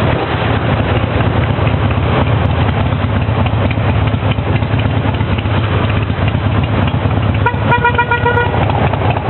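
Motorcycle engine and road noise while riding, a steady low rumble. About seven and a half seconds in, a vehicle horn honks for about a second.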